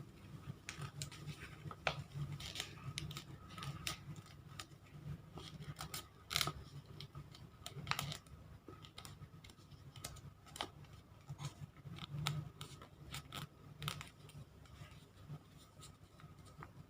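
Origami paper being folded toward the centre and creased by hand: irregular crisp crackles and clicks of the paper throughout, over a faint steady low hum.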